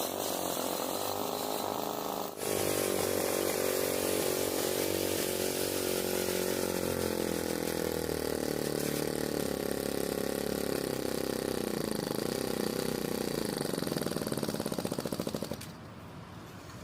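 Vortrixe mini four-stroke petrol engine of a model tractor running steadily. Its tone changes abruptly about two seconds in, and it drops away near the end.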